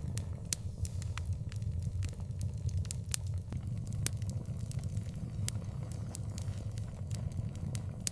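Wood fire burning, with irregular sharp pops and crackles over a steady low rumble.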